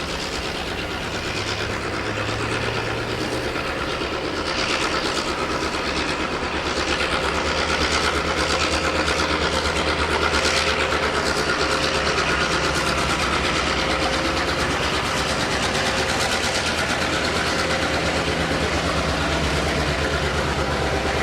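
Australian diesel locomotive engine running with a steady drone as a train works by, growing louder over the first few seconds and then holding.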